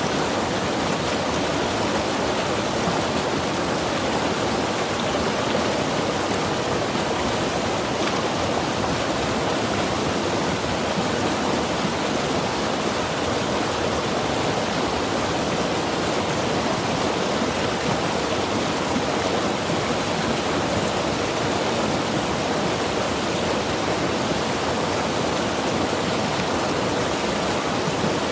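Mountain river rushing steadily over rocks, a dense, even rush of water.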